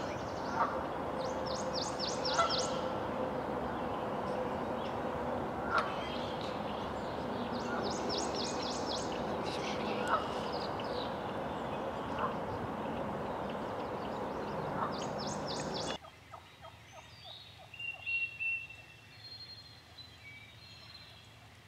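Birds calling in short, rapid rattling bursts, four times, over a steady rushing background. About sixteen seconds in the rushing stops abruptly, leaving quieter woods with a few thin, high calls.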